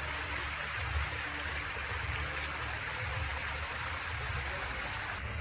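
Artificial waterfall running: a steady rush of falling water with an uneven low rumble underneath.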